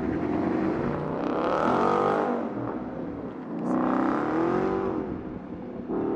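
Car engine accelerating hard, its note climbing in pitch and then dropping back, twice: once about a second and a half in and again about four seconds in.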